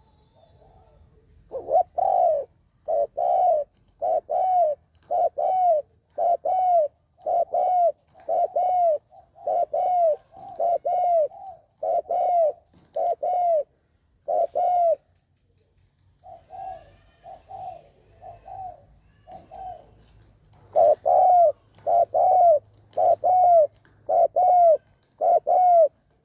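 Spotted dove cooing: a long series of short, arched coo notes, about one a second. The notes turn softer after a brief pause midway, then come loud again near the end.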